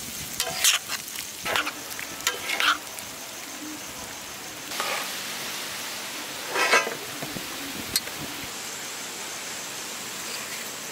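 Pieces of octopus sizzling on a hot dosa griddle, nearly done, while a spatula scrapes and turns them in short strokes: a cluster in the first three seconds, then a few more around the middle.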